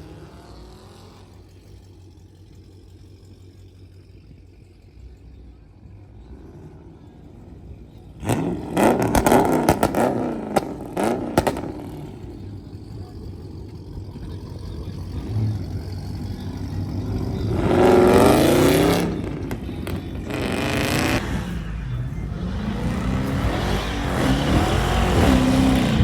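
Car engines revving as cars pull away. After a quieter start, a loud crackling burst of engine noise comes in about eight seconds in, followed by revs that rise and fall, loudest a little past the middle and again near the end.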